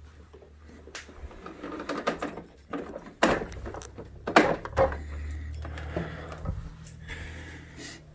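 Irregular clunks, knocks and a metallic rattle as a Concept2 rowing machine is handled and turned back over onto its feet, the loudest knocks a little past the middle.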